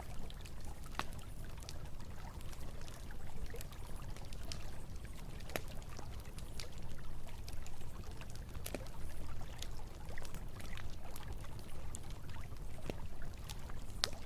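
Campfire crackling, with scattered sharp pops and one stronger pop near the end, over the steady rush of flowing river water.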